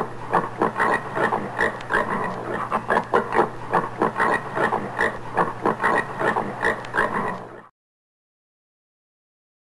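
Common warthog grunting in a quick, even series, about three grunts a second, cutting off suddenly about eight seconds in.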